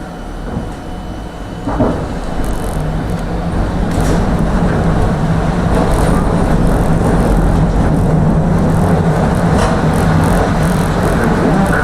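Tram running, heard from inside the car: a steady rumble of wheels on the rails with a low motor hum. It grows louder over the first few seconds as the tram picks up speed, with a single knock about two seconds in.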